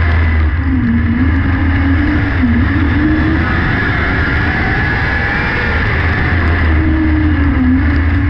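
600cc micro sprint car engine running hard and loud, its pitch dipping and coming back up a few times as the throttle is eased and reopened.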